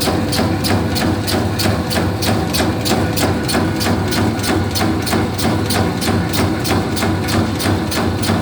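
Meatball-forming machine running, its mechanism clacking in an even rhythm of about four to five clacks a second over a steady motor hum.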